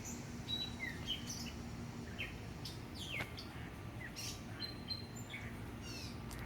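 Several songbirds chirping and calling: short high chirps and whistled notes, some sliding down in pitch, scattered throughout over a low steady background rumble.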